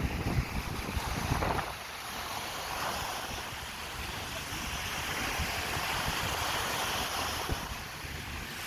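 Sea waves washing onto the beach, a steady surging hiss, with strong wind buffeting the microphone; the buffeting is heaviest for the first second and a half or so.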